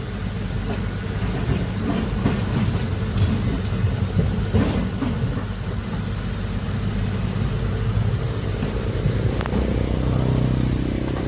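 Heavy excavator's diesel engine running under load, a steady low rumble, with a few faint knocks of the machine working.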